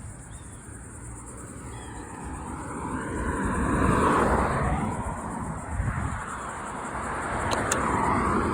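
Cars driving past at speed, tyre and engine noise swelling to its loudest about four seconds in, then a second car coming through near the end.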